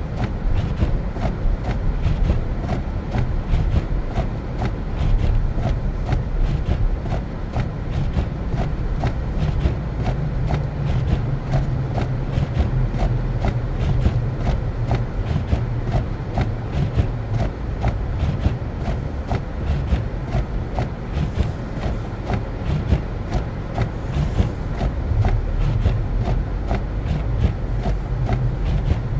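Car driving on a snow-covered road: a steady low rumble of engine and tyres, with a stream of light ticks throughout.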